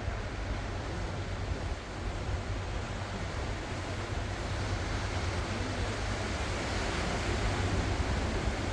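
Ocean surf washing ashore in a steady wash that swells louder near the end, with a low wind rumble on the microphone.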